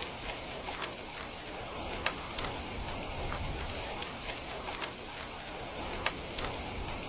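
Steady rain falling, an even hiss with scattered sharp clicks of drops or crackles throughout.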